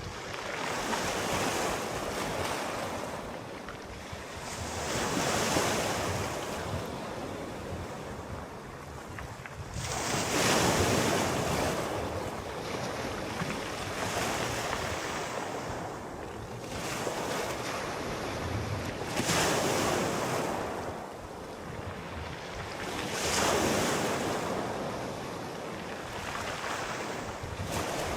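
Gentle sea waves breaking and washing in, each swell rising and falling away, about one every four to five seconds.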